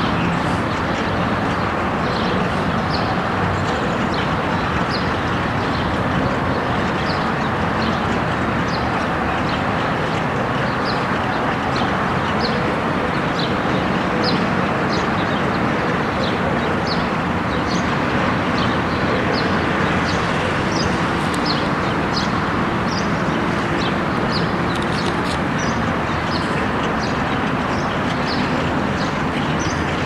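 Birds chirping, short high calls repeating about once a second, over a steady background rumble.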